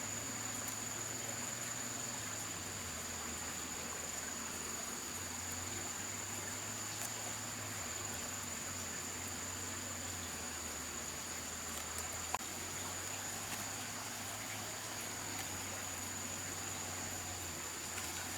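Forest insects droning, one steady high-pitched note held throughout over a constant background hiss, with a single sharp click about twelve seconds in.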